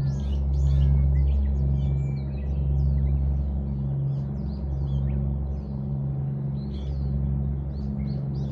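Many small birds chirping and twittering in quick, overlapping calls over a steady low hum.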